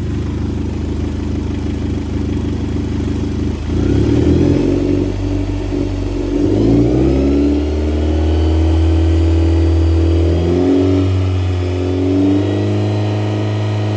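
2011 Kia Sorento 2.4-litre four-cylinder engine running steadily, then revved up about four seconds in, with the pitch rising and falling a few times before it settles at a steady speed.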